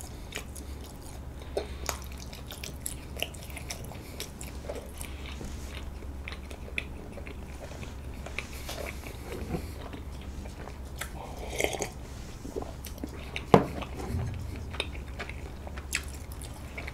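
Close-miked chewing of soft, sticky half-moon rice cake (bandal-tteok): scattered small wet mouth clicks and smacks, with a sharper smack about thirteen seconds in, over a steady low hum.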